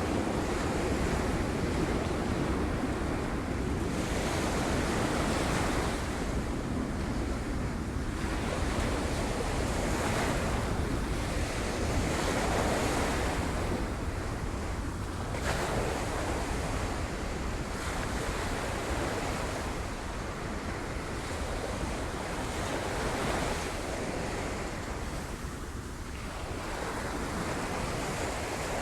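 Sea waves breaking on rocks, a continuous rush of surf that swells and ebbs every few seconds, with a steady low rumble of wind on the microphone.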